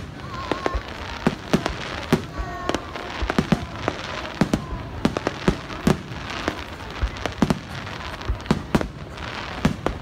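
Fireworks display: aerial shells bursting in a quick, irregular run of bangs, about two or three a second, over continuous crackling.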